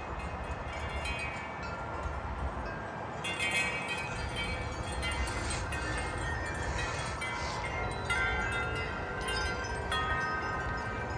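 Several tubular wind chimes ringing irregularly in a gusty wind, with the ringing picking up about three seconds in. A low wind rumble on the microphone runs underneath.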